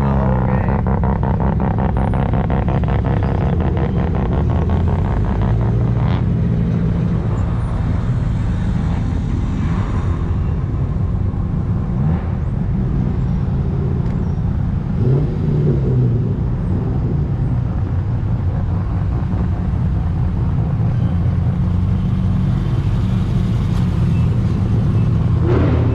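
Car engine running under way with steady road noise, its pitch shifting up and down a few times as the revs change.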